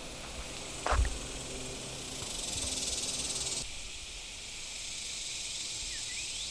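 Steady high-pitched insect buzzing, with a louder buzz from about two seconds in that cuts off suddenly at about three and a half seconds. A sharp knock about a second in, and a few short rising chirps near the end.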